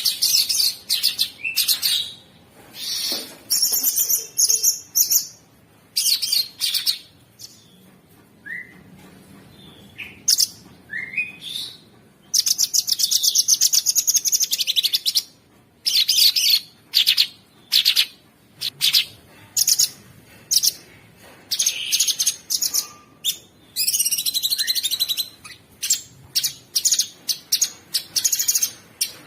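Cucak sungkok singing a coarse, rattling song: fast harsh trills and chattering phrases in spells of a second or two, broken by short gaps and a few brief rising whistles.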